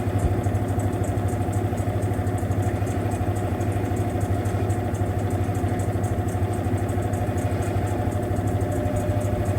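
Mueller Popmatic 8 kg washing machine running steadily in its final spin, a constant low hum with a fast even pulsing as the drum turns near the end of the cycle.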